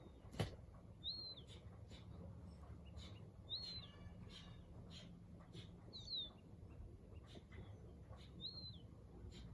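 A bird repeating one short, high chirp four times, about every two and a half seconds, faint against scattered clicks and a low hum; a single sharp click just after the start is the loudest sound.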